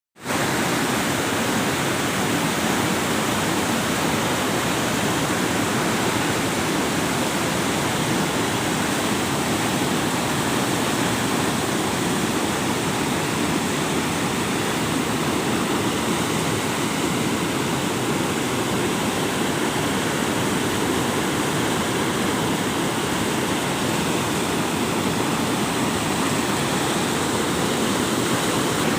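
Storm runoff rushing through a roadside drain running full after heavy rain: a steady, even rush of flowing water.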